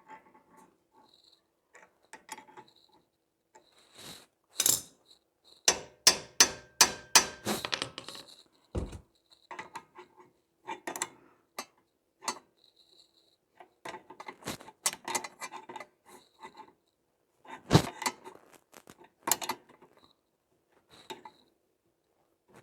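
Metal hand tools clinking and knocking on steel suspension parts during ball-joint removal: scattered light clinks, a quick run of them about six seconds in, and a few heavier knocks around nine and eighteen seconds in.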